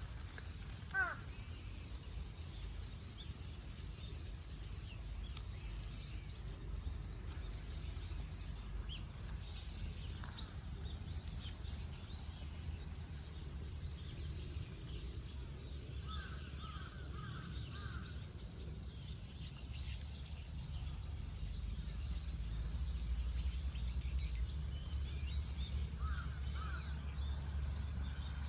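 Outdoor park ambience: a steady low rumble with scattered bird calls, including two short runs of repeated calls about halfway through and near the end.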